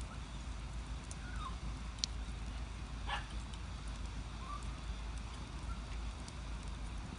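Split-wood fire burning in an agungi firebox under a cast-iron cauldron: scattered small crackles and one sharp pop about two seconds in, over a steady low rumble.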